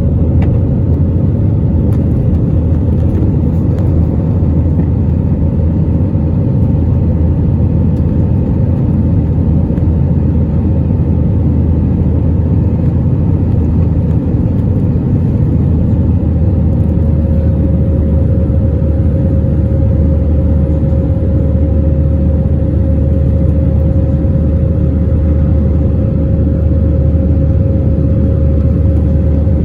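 Airliner cabin noise during the climb after take-off: a loud, steady rumble of the jet engines and the air rushing past. A faint steady whine runs over it and changes pitch about halfway through.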